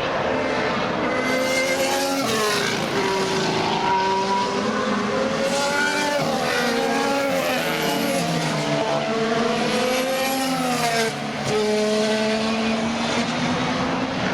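Several 2015 Formula One cars, 1.6-litre turbocharged V6 hybrids, running through a chicane: their engine notes step down as they brake and downshift, then climb as they accelerate away, with more than one car heard at a time. There is a short dip about eleven seconds in before the next car comes through.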